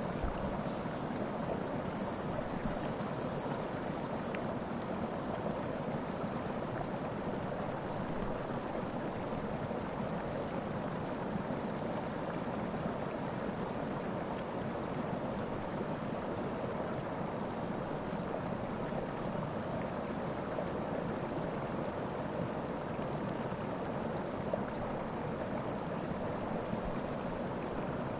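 Waterfall rushing steadily, with a few faint high chirps about four seconds in and again near the middle.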